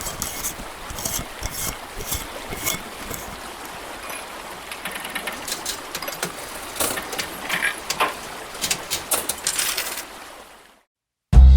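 Irregular sharp clicks and rattles over a steady hiss, fading out near the end.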